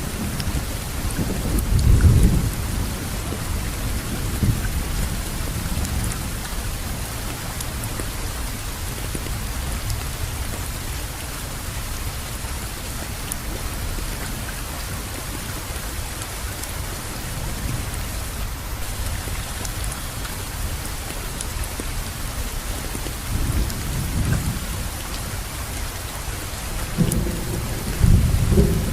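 Steady heavy rain falling, with low rolling rumbles of thunder that swell about two seconds in and again near the end.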